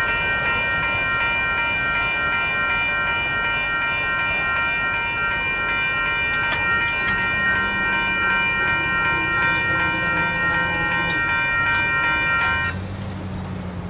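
Railroad grade-crossing bells ringing steadily, with rapid, evenly repeated strikes, then cutting off suddenly near the end as the crossing signals deactivate after the train has cleared.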